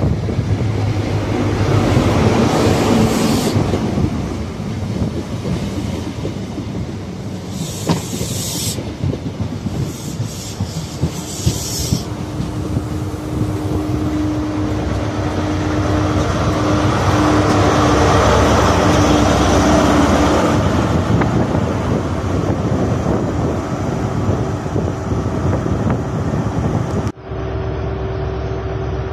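GWR InterCity 125 high-speed train running past: the leading Class 43 diesel power car, then the coaches' wheels clattering over the rail joints, with a steady tone through the middle stretch. Near the end it cuts suddenly to a Class 43 power car's diesel engine idling.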